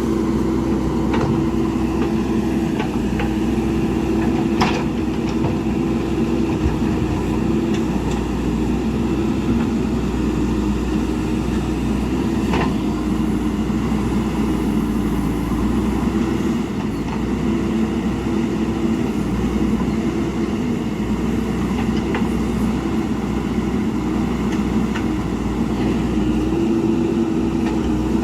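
JCB backhoe loader's diesel engine running steadily under work, with a few sharp knocks from the digging scattered through it.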